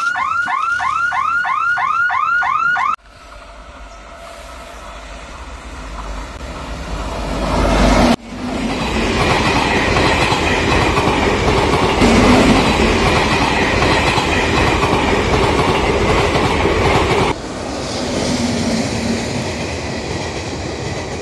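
A level-crossing warning sounder chirps rapidly, about four rising chirps a second, for the first three seconds. Then an express train approaches with a rumble that grows steadily louder. An electric locomotive and its passenger coaches then run past close by, loud and steady.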